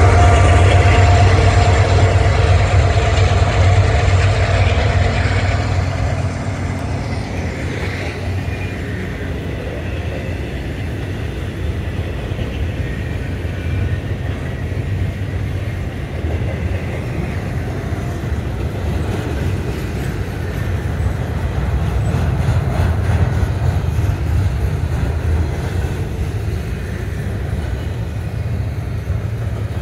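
A diesel freight locomotive passes close with its engine running. About six seconds in, its sound gives way to the steady rumble and rattle of double-stack container well cars rolling by.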